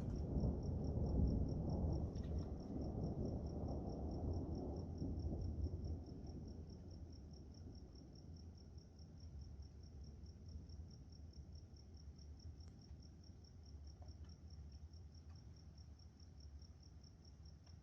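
Thunder rumbling and dying away over the first few seconds. A cricket's steady, evenly pulsed high chirping carries on throughout and is left alone once the rumble fades.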